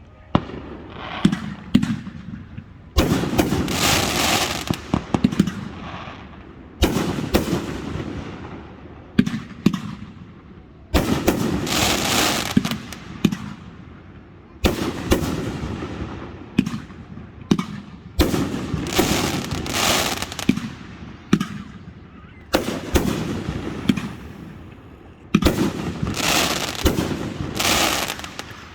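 Fireworks display: aerial fireworks bursting with a sharp bang every three to four seconds. Each bang is followed by a couple of seconds of dense crackling.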